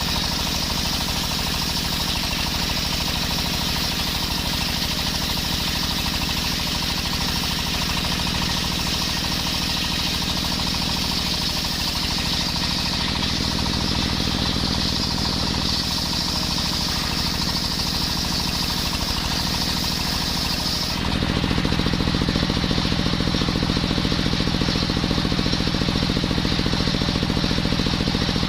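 Engine-driven circular sawmill running steadily, its engine pulsing under a high hissing whine of the blade cutting coconut wood. About three quarters of the way in the hissing stops abruptly, and the lower engine hum gets louder and steadier.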